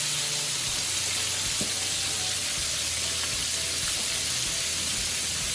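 Flour-coated chicken pieces frying in hot oil in a skillet: a steady, even sizzle.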